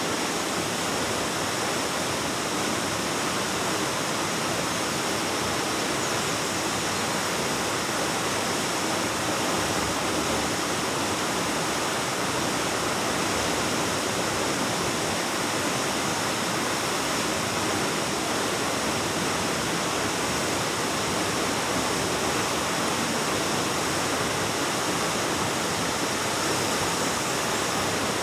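Waterfall pouring steadily: an unbroken rush of falling water.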